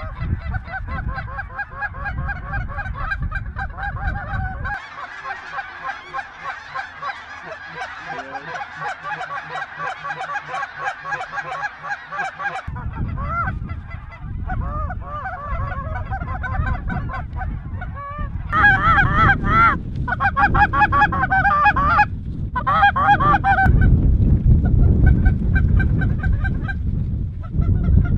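A flock of geese honking, many calls overlapping continuously and growing louder from about two-thirds of the way in, with wind rumbling on the microphone.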